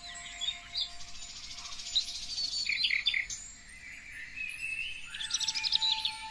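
Several songbirds singing and chirping over one another, with quick rising and falling notes. There is a rapid trill about two seconds in and a dense run of chirps near the end.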